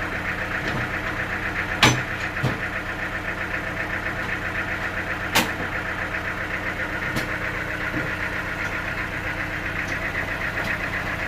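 An engine running steadily with a fast, even pulse. Sharp knocks come about two seconds in, again just after, once near the middle and once more a little later.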